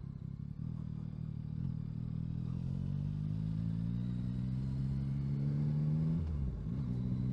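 Yamaha Tracer 9's 890 cc three-cylinder engine heard from the rider's seat as it pulls away, its note rising steadily as the bike gathers speed. About six seconds in the pitch drops sharply, then the engine settles into a steady note.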